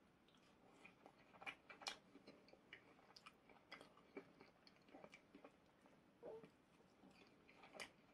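Faint chewing of fried potato chips: scattered soft crunches and clicks, the clearest a couple of seconds in and near the end.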